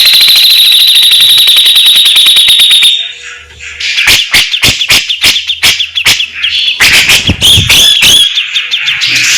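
Grey-cheeked bulbul (cucak jenggot) singing loudly. It gives a very fast high trill for about three seconds, then after a short pause a string of sharp, separate notes that quicken into rapid, harsh chattering, the 'besetan' that keepers prize in this bird.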